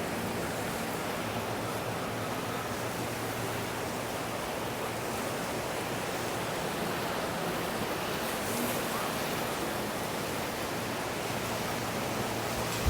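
Steady rush of ocean surf and wind, an even noise that stays at one level throughout.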